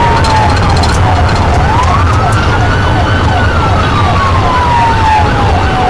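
Police sirens sounding together: a slow wail that falls, climbs again about two seconds in and falls once more, over a faster yelp that sweeps up and down a few times a second. A steady low rumble runs underneath.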